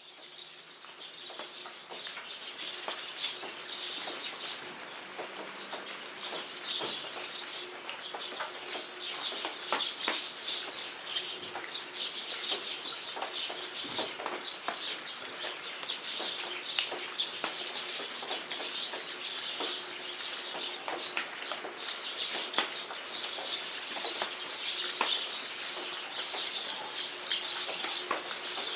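Many birds chirping continuously over steady rain, with scattered sharp drops, fading in over the first couple of seconds.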